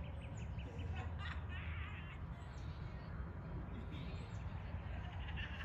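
Birds chirping: a quick run of short repeated chirps near the start and several high calls that fall in pitch, over a steady low rumble.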